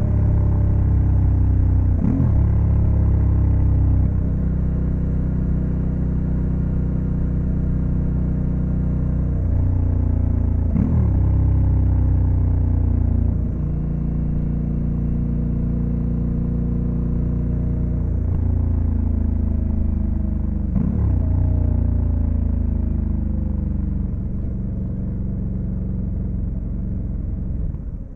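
Honda Africa Twin CRF1100L's parallel-twin engine pulling the motorcycle along at road speed, its note slowly falling, with three brief gear changes about 2, 11 and 21 seconds in.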